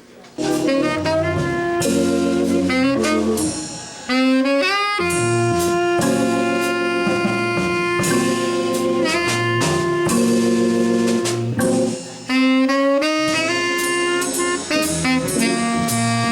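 Live jazz trio starting to play about half a second in: a melody over held chords with a drum kit's cymbals and drums.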